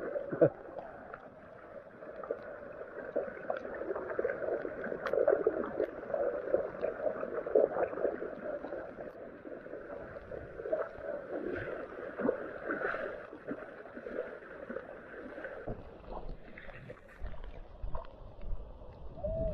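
Heavy rain pouring onto flooded pavement and open water in a storm, a continuous splashing hiss. A low rumble joins in for the last few seconds.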